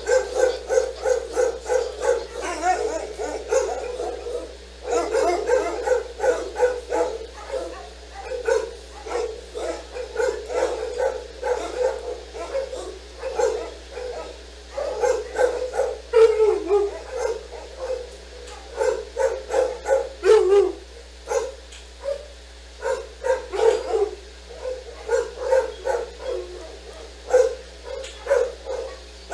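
A dog barking over and over in rapid, high-pitched barks, several a second, with brief pauses. Twice, around the middle, the barks trail off into a falling whine.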